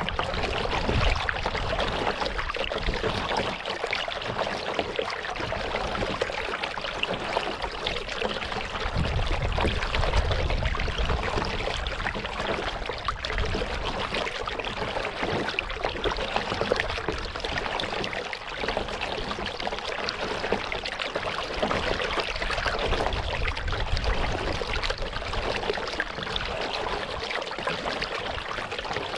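Water splashing and trickling around a kayak as it is paddled, a steady rushing, dripping texture, with a low rumble about ten seconds in.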